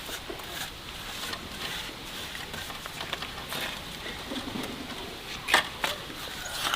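Scattered light clicks and taps over a faint steady hiss, with a short low call a little past the middle and two sharper knocks near the end.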